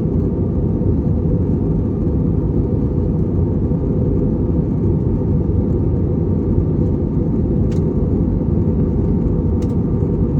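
Steady low rumble of engine and airflow noise inside a jet airliner's cabin in flight, even and unbroken, with two faint ticks near the end.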